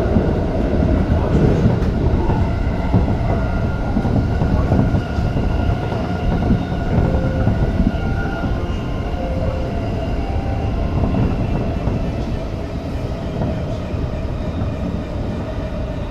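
Tokyo Metro 05 series electric train running between stations, heard from inside the leading car: a steady rumble of wheels on rail with a faint whine from the traction motors, easing off slightly near the end.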